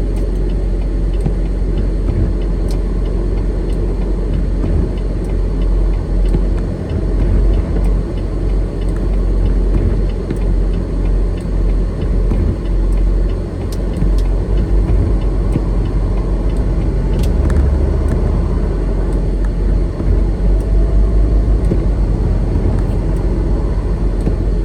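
Steady low rumble of a semi truck's diesel engine and road noise, heard inside the cab while driving.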